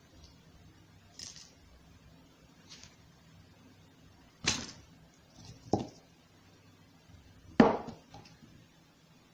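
Three sharp knocks, the last and loudest one a few seconds in, with a few faint short clicks and scrapes between them.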